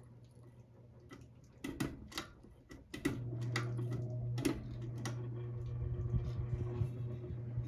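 Hampton Bay Gazebo Plus ceiling fan being switched: a run of sharp clicks, like a pull-chain switch being worked, with the motor's steady low hum stepping up clearly louder about three seconds in.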